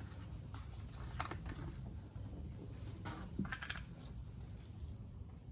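A few light clicks and taps from small tools or parts being handled, over a low steady hum.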